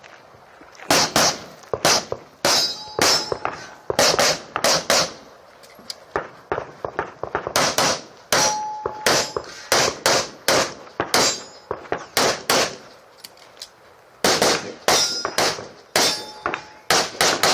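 Strings of rapid 9mm pistol shots from a Glock 34, with steel targets ringing when hit. Short breaks in the shooting come about six and thirteen seconds in.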